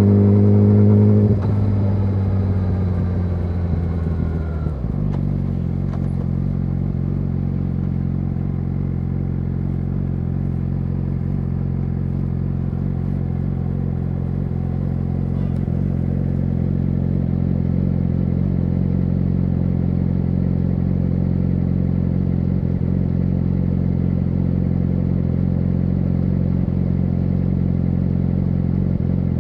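Yamaha YZF-R6's inline-four engine through an SC-Project SC1-R exhaust. It runs at slightly raised revs for about a second, then drops back and settles into a steady idle by about five seconds in.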